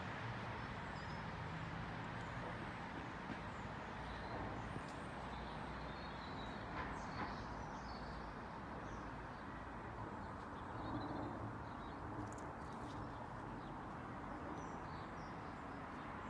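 Scattered faint bird chirps, short and high-pitched, over a steady low outdoor background hum.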